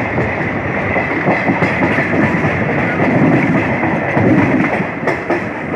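Passenger train running on the track, with a steady rumble and the clatter of wheels over the rails, and a few sharp clicks.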